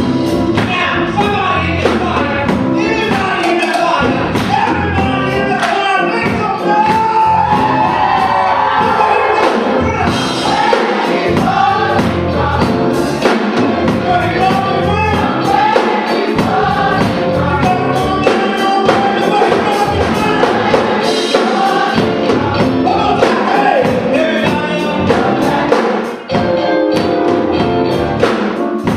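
Gospel choir singing with a live band: drum kit keeping a steady beat under the voices.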